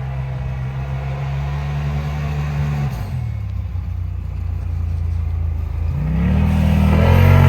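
Off-road vehicle engine running steadily. About three seconds in it drops in pitch, then near the end it revs up with rising pitch and grows louder as it accelerates.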